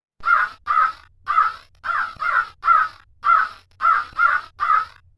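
Crow cawing over and over, about ten short caws at roughly two a second, some in quick pairs.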